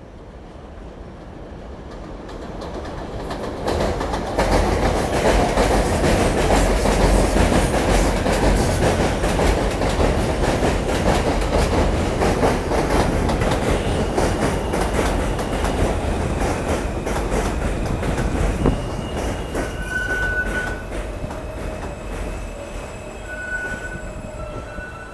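A New York City subway F train on the rails. The rumble builds over the first few seconds into a loud, rapid clatter of wheels over rail joints, then eases in the last several seconds, with thin high-pitched wheel squeals near the end.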